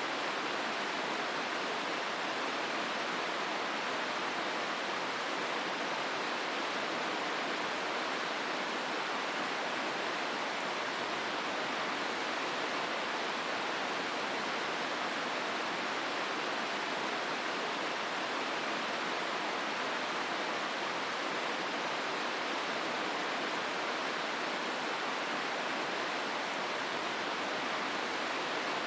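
The Hozu River rushing through the gorge: a steady, even rush of flowing water that doesn't change.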